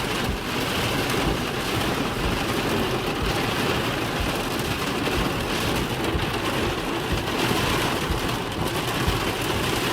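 Heavy rain mixed with small hail drumming steadily on a car's roof and windows, heard from inside the cabin as a dense, even patter.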